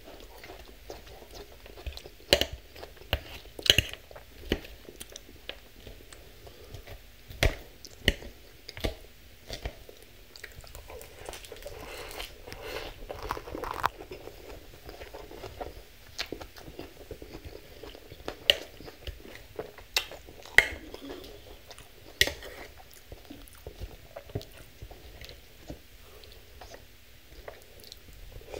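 Close-miked chewing and biting of mouthfuls of crisp leafy salad greens, with sharp crunchy clicks now and then, the loudest about twenty seconds in.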